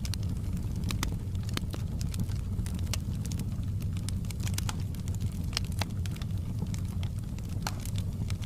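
Wood fire burning in a fireplace: a steady low rumble with frequent, irregular sharp crackles and pops of burning wood.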